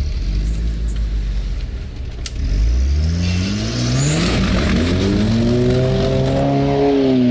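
Off-road car's engine running low, then revving hard from about three seconds in: the pitch climbs and holds at high revs as the car pushes along a muddy track, easing off slightly near the end.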